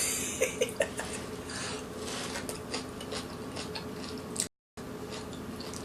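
Close-up eating noises: chopsticks clicking and tapping against a dish, with soft mouth sounds. The sound drops out for a moment near the end.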